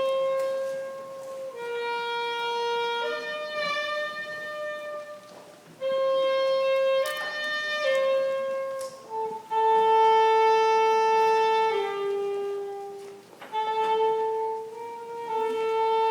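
A solo wind instrument playing a slow melody of held notes, in phrases with short breaths between them.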